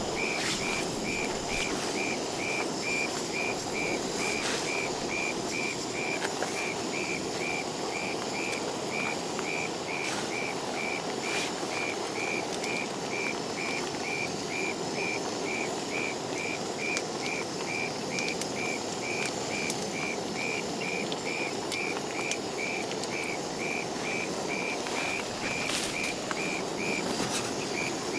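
A steady hiss of rain with a short, high chirp repeating evenly about twice a second throughout.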